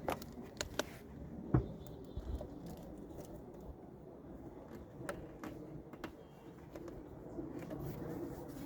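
Scattered knocks and clicks from the Jeep Wrangler's rear seat and fittings being handled during its removal, with one louder thump about a second and a half in, over low steady background noise.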